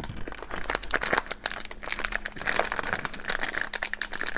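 Plastic packaging crinkling and crackling as it is handled, in rapid irregular clicks.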